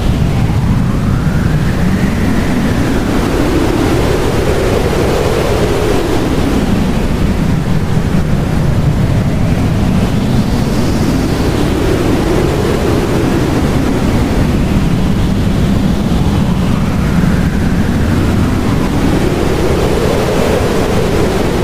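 Blizzard wind blowing with a steady, dense rush, over which a howling whistle slowly rises and falls in pitch, swelling every few seconds.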